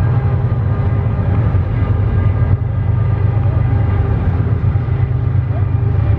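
Freight train going by, a steady loud low rumble with faint steady tones above it.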